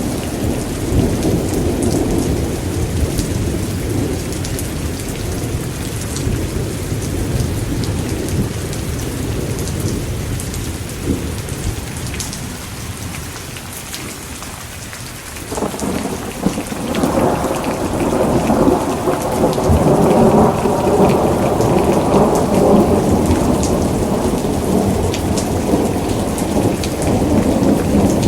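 Thunderstorm: steady heavy rain with rolling thunder. One long rumble fades out about halfway through, and a new roll of thunder breaks in suddenly soon after and swells.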